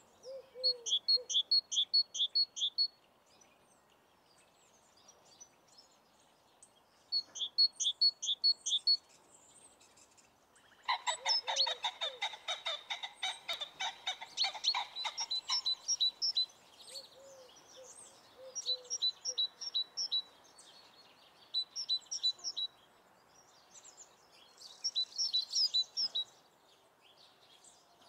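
Birds singing: short phrases of quick high chirps repeated every few seconds, with a louder, denser run of rapid pulsed calls from about eleven to sixteen seconds in.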